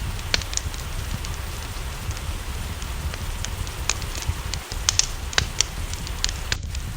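Wood fire crackling, with sharp pops at irregular moments, over a steady rush of rain.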